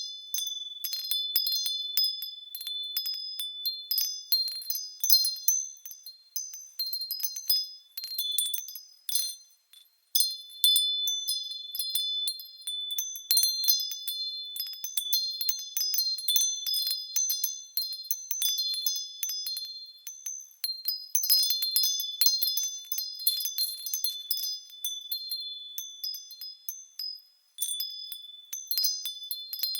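Japanese fūrin wind chime ringing as the wind swings it, with irregular clinks and high ringing tones. The chime goes quiet briefly about nine seconds in and again near the end.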